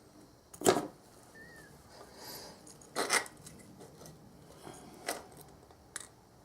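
Small metal parts clinking and knocking as they are handled and set down, four separate knocks a second or two apart, the second a quick double.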